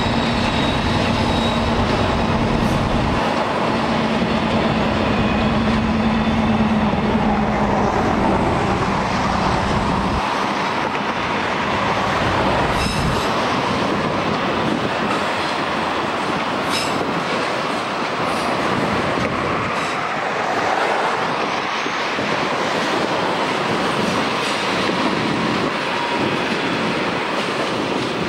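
Freight train cars rolling past on curving track: a steady rumble of steel wheels on rail, with a faint high wheel squeal early on and a few light clicks as the cars cross joints and switches.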